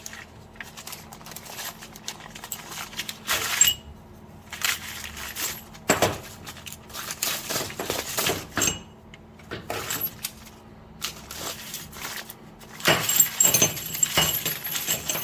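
Small steel hardware (bolts, washers and nuts from a suspension shackle kit) clicking and clinking as it is handled and sorted. There are scattered clicks at first, then a busier run of jingling, ringing metal clinks near the end.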